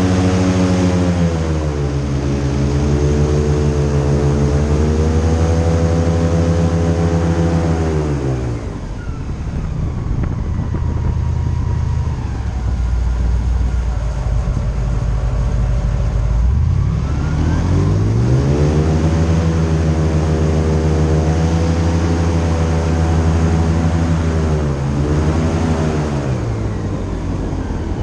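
Airboat engine and propeller running hard, then throttling down about eight seconds in to a low idle rumble, and throttling back up with a rising pitch around seventeen seconds, with a brief dip in revs near the end.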